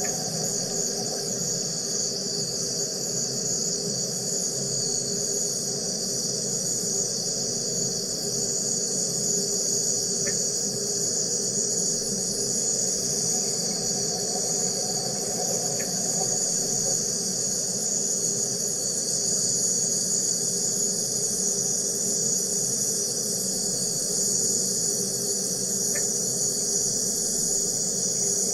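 Wire EDM (electrical discharge machine) cutting, giving a steady, high-pitched buzzing hiss over a lower steady hum.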